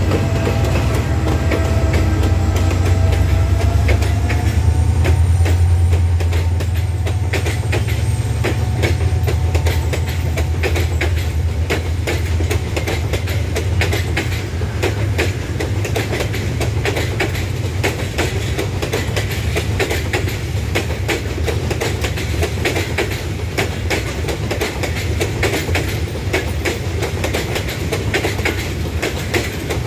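Bangladesh Railway intercity passenger train passing close by. The diesel locomotive's low engine drone is loudest a few seconds in and fades by about seven seconds, then a long string of coaches rolls past with a steady clatter of wheels over the rail joints.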